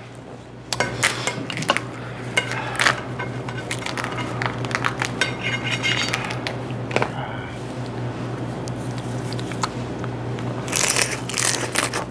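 Shell of a cooked swimming crab being cracked and pulled apart by gloved hands: irregular crunching and crackling snaps, with a light clink of dishes. The cracking grows busier near the end as he bites into the crab.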